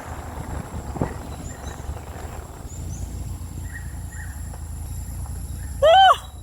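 A single short, loud animal call near the end, rising and then falling in pitch, over a low steady rumble.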